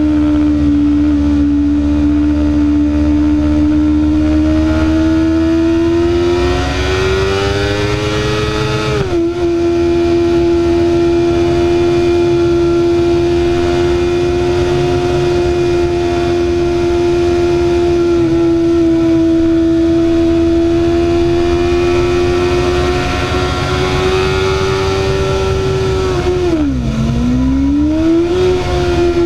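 BMW S1000RR inline-four engine pulling steadily under throttle, its high engine note rising slowly and then dropping sharply at an upshift about nine seconds in. Near the end the pitch falls and climbs back as the throttle is rolled off and on again. Steady wind rush runs underneath.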